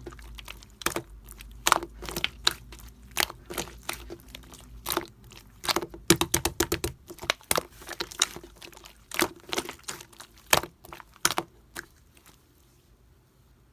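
Pink and clear mixed slime being squished and pressed by hand, giving irregular sharp clicks and pops. The popping stops about twelve seconds in.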